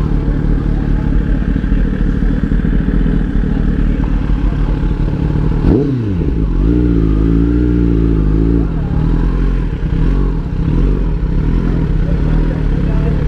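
Motorcycle engines idling, with one revved sharply about six seconds in, its pitch falling back quickly, then held at raised revs for about two seconds before settling back to idle.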